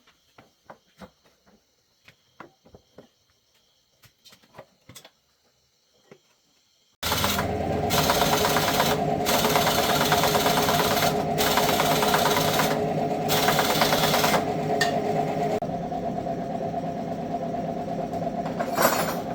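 Small motorcycle engine running, beginning abruptly about seven seconds in and continuing loud and steady with a mechanical rattle, after a few seconds of faint scattered clicks.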